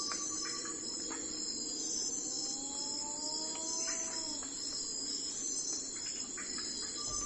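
Steady chorus of crickets chirring, with a soft held tone near the start and two gentle rising glides in the middle.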